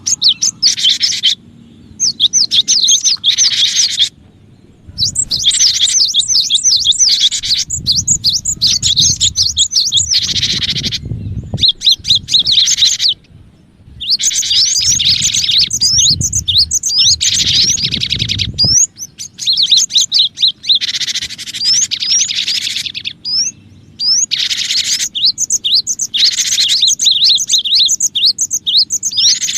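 Cinereous tit (gelatik batu) calling: repeated bursts of fast, high chirps, each burst cutting off abruptly before the next, with a low rumble underneath through the middle stretch.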